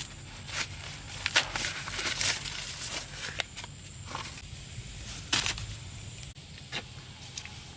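Irregular sharp crackles and snaps, a dozen or more at uneven spacing, over a steady low rumble.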